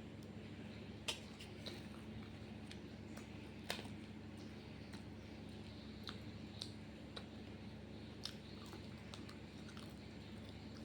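A person chewing food, with scattered sharp clicks, the loudest about a second in and just before four seconds in, over a steady low hum.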